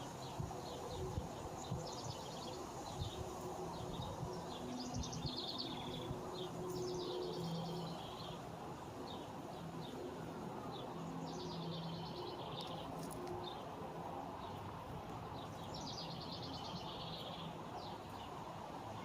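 Small birds chirping in short trilled bursts, several times, over a steady low hum and background noise.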